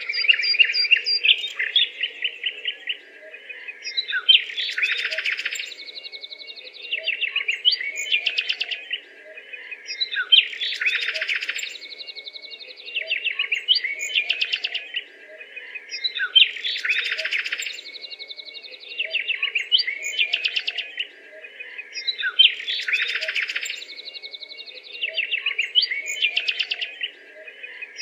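A bird singing a phrase of rapid trills and chirps, repeated about every six seconds, over a faint steady hum.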